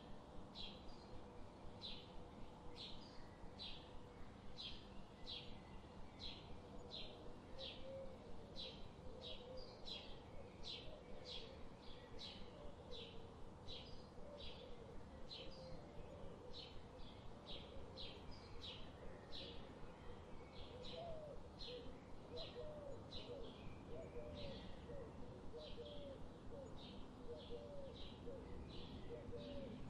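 Songbird chirping in the wild, one short high note repeated about twice a second. From about a quarter of the way in, a second, lower-pitched warbling call joins it over a faint steady background hiss.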